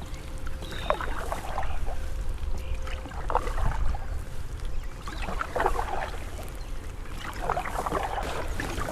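Canoe paddle strokes splashing and pulling through the water, about one every two seconds, over a low steady rumble.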